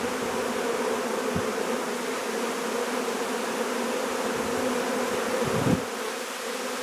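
A swarm of honeybees buzzing around the hive: a steady, dense hum of many bees. Single bees fly close past the microphone now and then, the loudest pass coming near the end.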